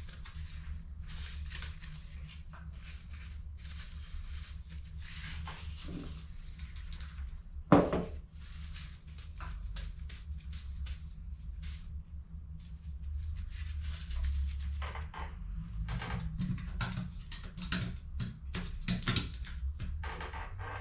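Hands working on HP CE285A laser toner cartridges: scattered plastic clicks, scrapes and rustles, with one sharp knock about eight seconds in and busier handling near the end, over a steady low hum.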